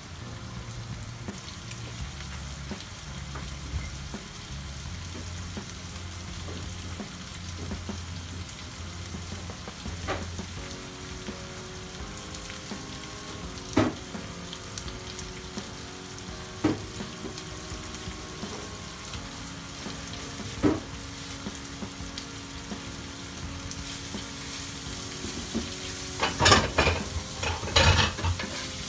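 Chicken liver sizzling steadily in a frying pan, with an occasional sharp click and a quick run of louder clicks near the end.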